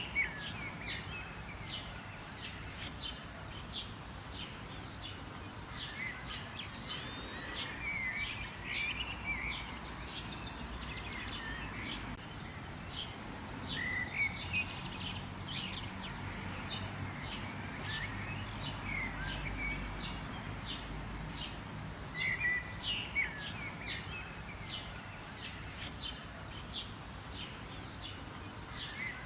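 Many small birds chirping and singing together: a steady chorus of short, high chirps and warbling phrases, over a faint low rumble of background noise.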